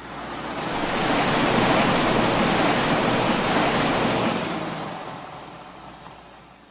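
A rushing, surf-like wash of noise with no distinct pitch or clicks, swelling in over the first second or so, holding, then fading away near the end.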